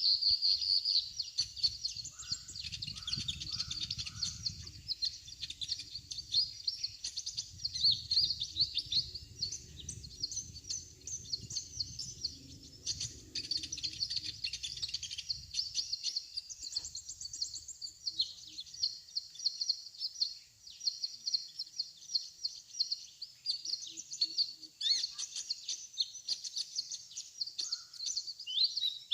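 Sunbirds chirping and twittering in fast, high, continuous series, as a lure call draws wild birds to a decoy. A low rumble runs underneath until about halfway through.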